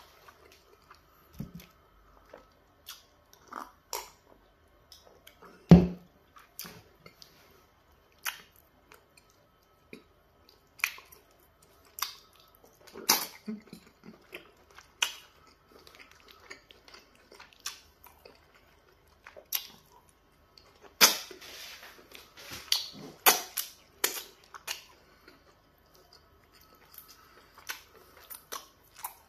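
Close-miked eating sounds of pounded yam fufu and meat in peanut butter soup eaten by hand: wet chewing, lip smacks and sharp mouth clicks at irregular intervals. There is a single low thump about six seconds in, and a denser run of smacks a little past the twenty-second mark.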